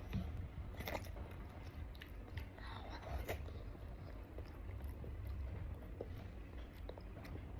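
A child chewing and eating close to the microphone, with scattered soft mouth clicks and smacks over a low background hum.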